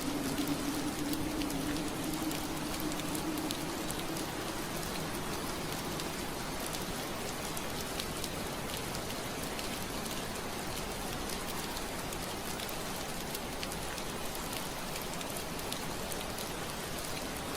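Steady rain pattering on window glass, with many small separate drop ticks over an even rain hiss. A low steady hum sits under it for the first three seconds or so, then fades out.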